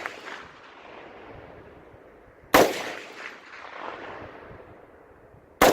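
Two rifle shots about three seconds apart, each followed by a long echoing tail that fades away.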